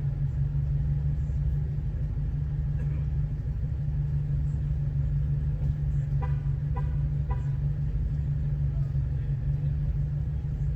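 Off-road vehicle driving along a trail, its engine and drivetrain giving a steady low drone.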